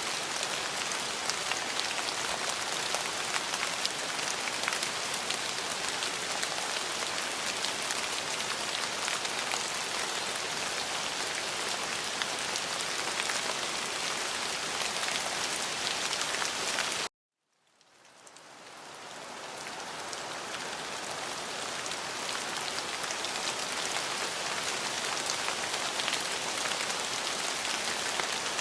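Steady rain falling, a dense even patter of drops. About 17 seconds in, it cuts out suddenly to silence for a moment, then fades back up over a few seconds, as at a loop or edit point in the recording.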